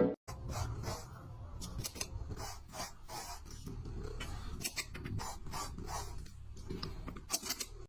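A run of irregular short scratching and clicking noises over a low rumble.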